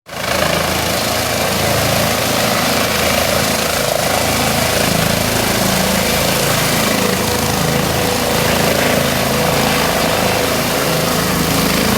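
Helicopter running nearby, a loud steady noise of engine and rotor with no change in level.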